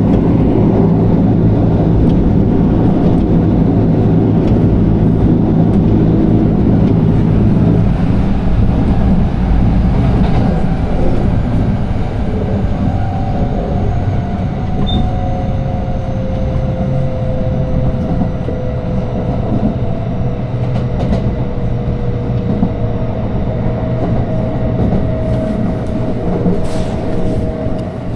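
Electric train running along the track, heard from on board: a dense low rumble with steady low tones. After about ten seconds the sound eases, and a pair of faint whining tones glide slowly downward.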